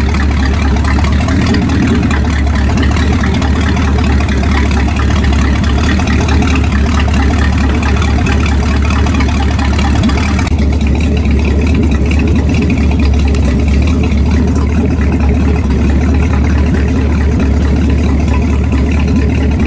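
Boat engine running steadily, a deep low rumble with a hiss on top. The higher hiss drops off abruptly about halfway through.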